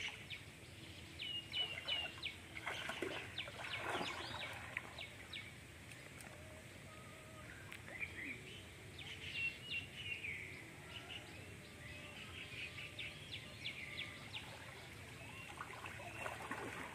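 Birds chirping and calling, with many short high chirps and whistles throughout.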